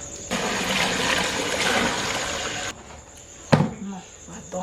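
Water running or pouring steadily for about two and a half seconds, then stopping abruptly, followed by a single sharp knock. A steady high cricket trill runs underneath.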